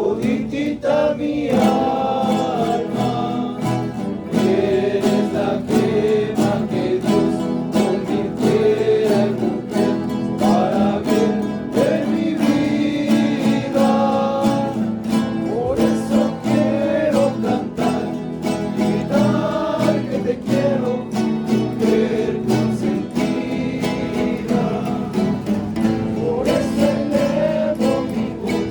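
Rondalla performing: several voices singing a slow melody together over strummed and plucked guitars.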